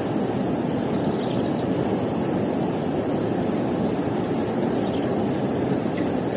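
A steady, even rushing noise with no distinct events, strongest in the low-middle range.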